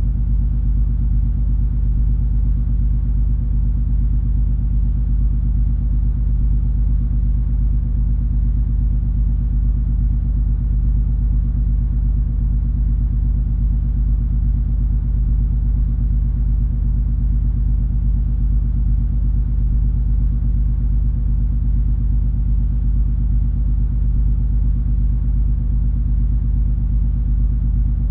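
Steady low drone of the cruise ferry MS Color Magic under way: an even engine hum with a few steady low tones under a soft rush, unchanging throughout.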